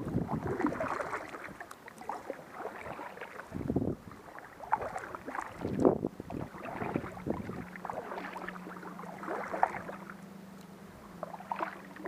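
Kayak paddling: paddle blades splashing and water dripping in irregular surges. A faint steady low hum comes in about seven or eight seconds in.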